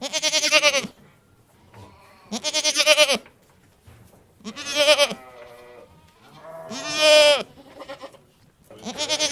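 A domestic animal bleating: five loud, wavering calls, each under a second long and about two seconds apart.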